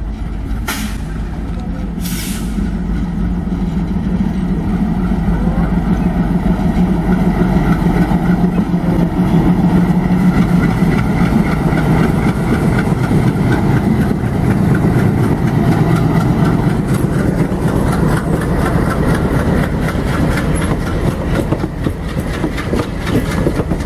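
An Indian Railways diesel locomotive hauling a passenger train runs past close by, its engine drone building to its loudest about halfway through, then the coaches roll by with a fast, steady clatter of wheels over the rail joints. Two short sharp hisses are heard near the start.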